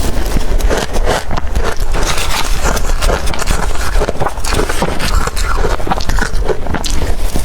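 Close-miked biting and chewing of blender-crushed ice: a dense, continuous crunching made of many quick irregular cracks.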